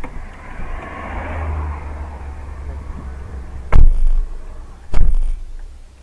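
Dash-camera recording of a car collision: a low rumble, then two loud bangs about a second apart.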